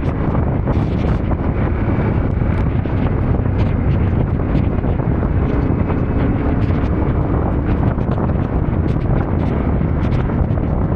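Wind buffeting the microphone over a Yamaha Ténéré 700 motorcycle running underneath while riding, with many small ticks and knocks scattered throughout.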